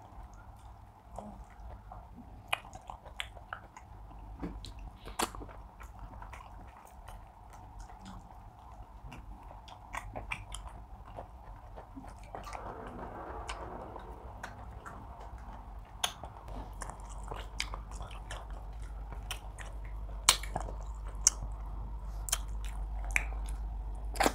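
Close-miked chewing and wet mouth sounds of two people eating pounded yam, okra soup and tilapia by hand, with scattered smacks and clicks over a low steady hum.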